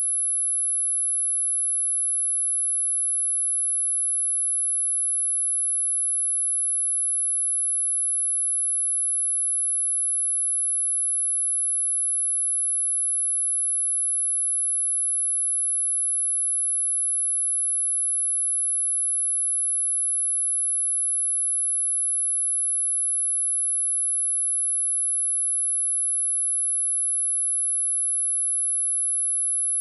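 A steady, unchanging high-pitched pure sine tone at 10982 Hz: a speaker test signal.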